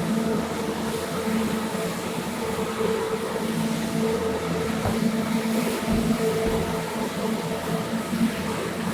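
A carpet cleaning machine's motor running steadily, a constant hum with a rushing wash over it.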